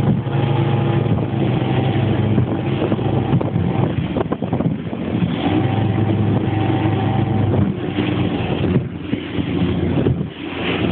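Rigid inflatable boat's engine running at speed with a steady drone. The note breaks up about four seconds in, comes back, then gives way to wind rush and water noise near the end.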